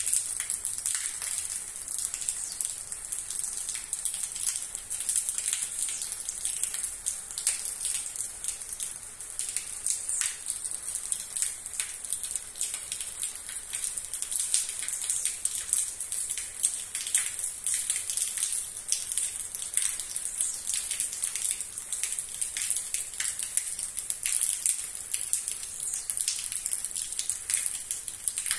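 Rain falling steadily: a constant high hiss with many separate drop hits close by on wet ground and a puddle.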